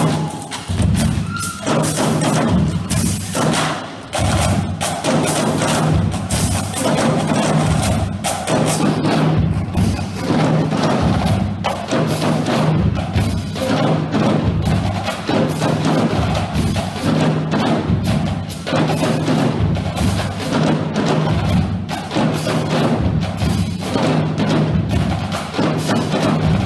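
High school marching drumline playing a fast cadence: dense, rhythmic snare and tenor drum strikes over pitched bass drum notes.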